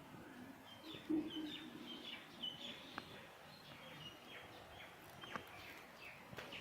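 Small birds chirping, short high chirps repeating on and off, with a few soft clicks.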